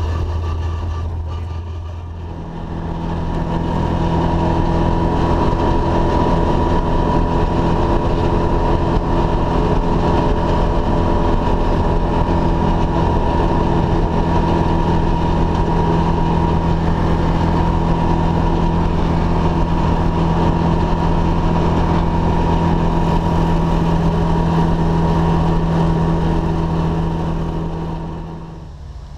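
Ford Escort RS2000 rally car's engine and drivetrain heard from inside the cabin, cruising at an even pitch. It gets louder a couple of seconds in, runs steadily, and eases off near the end.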